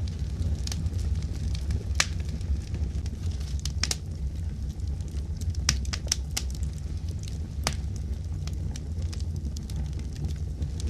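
Fireplace fire crackling: a steady low rumble with sharp pops at irregular moments, the strongest about two seconds in and just before eight seconds.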